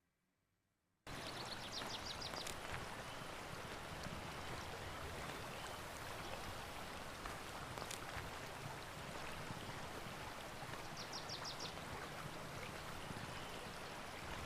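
Steady rush of running water, starting abruptly about a second in. A short, high, rapid ticking chatter comes twice over it.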